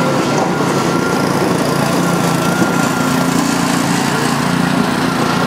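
Small petrol engine of a Muck-Truck motorised barrow running steadily.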